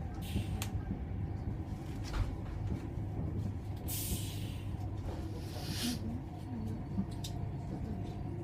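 Train running, heard from on board: a steady low rumble with scattered clicks and rattles. About halfway through comes a loud hiss lasting about two seconds.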